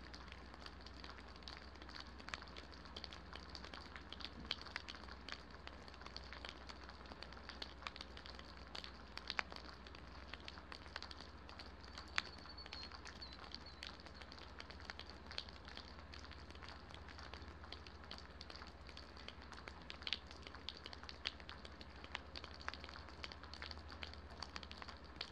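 Light rain: scattered raindrops ticking sharply close by over a faint, steady hiss.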